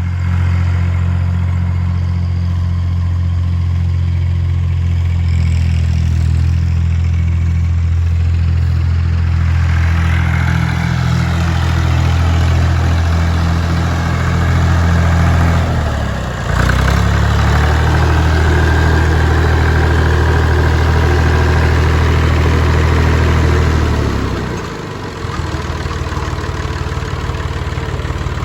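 Massey Ferguson 250 tractor's three-cylinder diesel engine running steadily just after a bump start. Its speed dips briefly about halfway through, then drops to a quieter idle near the end.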